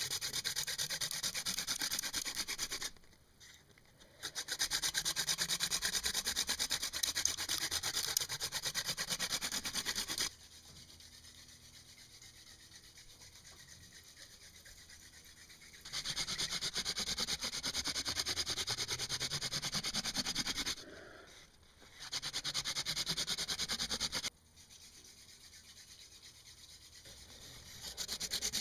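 Hand-drill friction fire: a mullein spindle spun back and forth between the palms, its tip grinding into a western red cedar hearth board with a fast, dry rubbing. It comes in spells of a few seconds, five times, with short quieter pauses between, as heat is worked up toward an ember.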